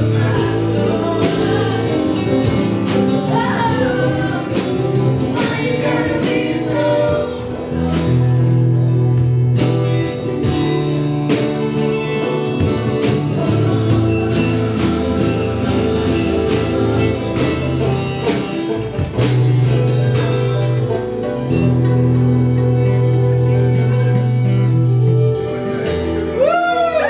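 Band music with a steady drum beat and a held bass line.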